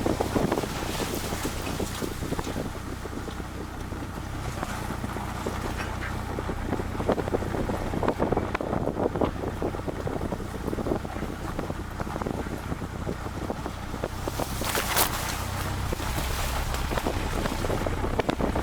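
Road vehicle driving with its engine droning steadily and wind buffeting the microphone, with a brief stronger gust about fifteen seconds in.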